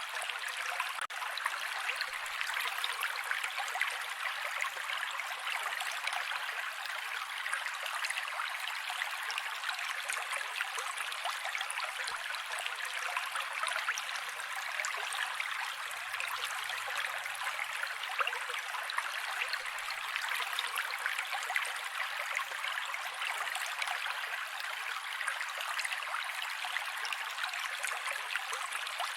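Mountain creek water running steadily, an even, unbroken rush.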